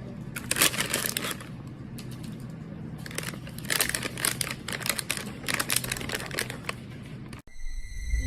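Crinkling and rustling in clusters of rapid crackles, over a faint low hum.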